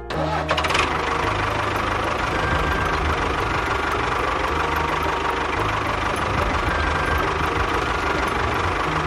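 Small engine running steadily with an uneven low throb, starting abruptly with a brief rattle in the first second.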